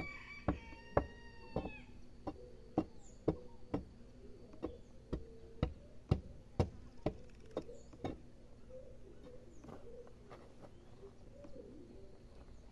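A series of sharp knocks at a steady pace of about two a second, stopping about eight seconds in. Birds chirp faintly over them.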